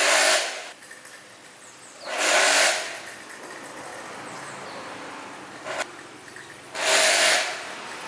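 Three short hissing bursts, each under a second, with a brief fainter hiss between the second and the third.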